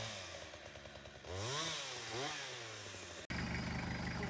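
Chainsaw engine revving up and falling back, twice. About three seconds in, an abrupt cut switches to a steady low engine drone.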